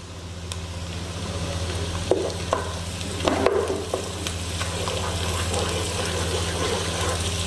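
Chopped onions and ginger-garlic paste sizzling in hot oil in a pot while being sautéed, with a wooden spoon stirring and knocking against the pot a few times. A steady low hum runs underneath.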